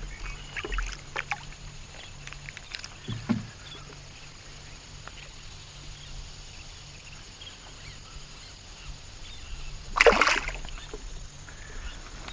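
Quiet lapping water around a small skiff, with a few small knocks and clicks as a landed seatrout is handled, then about ten seconds in one short loud splash as the trout is put back into the water.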